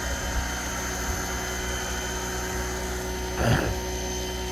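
Electric pressure washer running at its maximum setting: a steady motor hum under the hiss of the water spray. A short, louder burst comes about three and a half seconds in.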